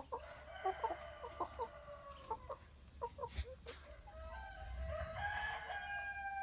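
Roosters crowing, two long crows: one in the first couple of seconds and a second starting about four seconds in, falling in pitch at the end. Short chicken clucks come in between.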